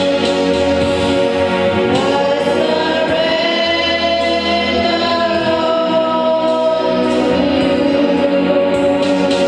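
Group of voices singing a slow gospel worship song, with long held notes.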